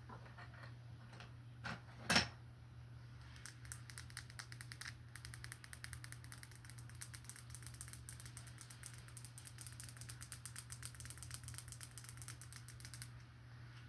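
Two sharp clicks, then a long run of fast, light tapping or clicking, many strokes a second, that stops suddenly near the end, over a low steady hum.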